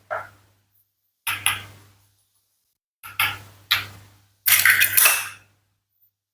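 About five short clacks and clatters of a toy knife cutting plastic and wooden toy fruit, the last one a little longer than the rest.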